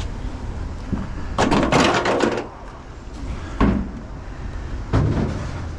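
A rapid clatter of hard knocks about a second and a half in, followed by two single heavy thumps, over a steady low rumble.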